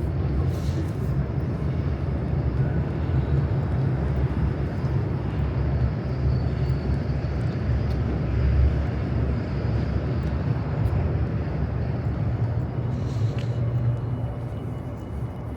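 Steady low rumble of city traffic with a faint hum, easing off slightly near the end.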